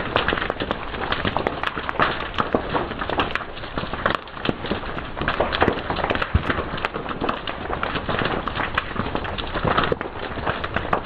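Fire crackling steadily, with many sharp pops and snaps scattered irregularly through it.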